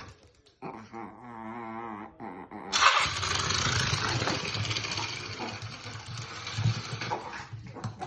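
Dog growling: a wavering pitched growl for the first couple of seconds, then a louder, rougher stretch starting about three seconds in.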